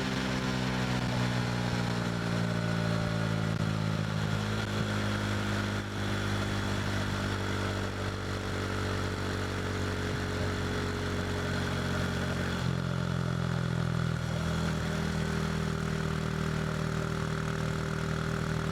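KTM RC 390's single-cylinder engine through an SC Project slip-on exhaust, its note falling slowly as the revs drop, with two sudden shifts in the note about two-thirds of the way through, then running steady at lower revs. Wind rush lies under it throughout.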